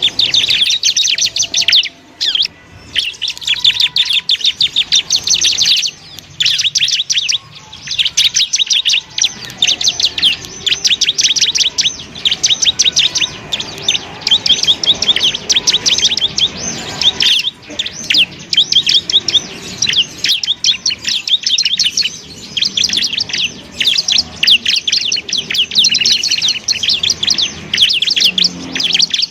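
Ciblek (bar-winged prinia) singing: rapid, dense high-pitched chirping trills in long continuous runs, broken by brief pauses around two, six and seventeen seconds in.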